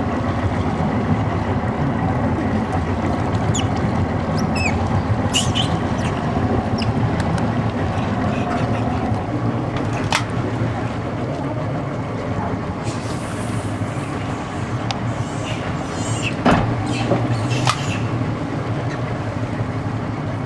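A boat's engine running steadily with a low drone, with short sharp sounds now and then.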